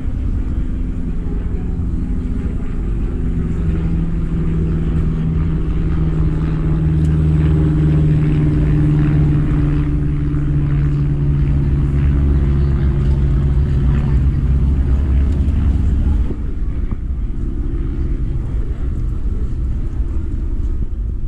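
Car engine running with a steady low rumble, swelling in the middle and dropping off about sixteen seconds in.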